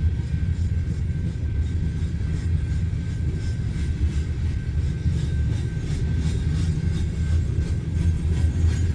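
Cars of a loaded coal train rolling past: a steady low rumble, with faint clicking of wheels over the rail joints in the second half.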